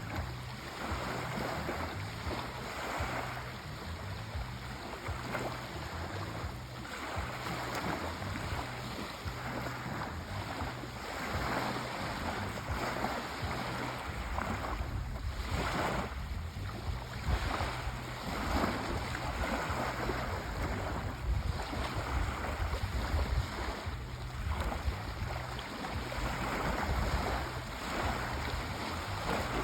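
Sea waves washing in and drawing back, the surf swelling and easing every second or two over a low rumble.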